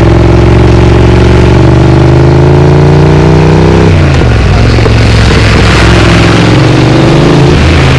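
Triumph Speed Twin's parallel-twin engine through a Vance & Hines exhaust, its note rising under acceleration. About halfway it breaks off abruptly into a rougher, noisier exhaust sound with a lower engine note.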